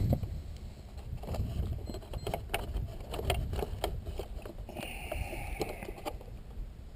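Wind buffeting the microphone with a steady low rumble and scattered clicks, and a brief high whine about five seconds in.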